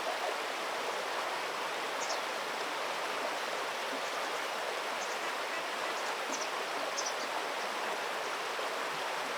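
Steady rushing of flowing stream water, with a few short high-pitched chirps above it about two, five, six and seven seconds in.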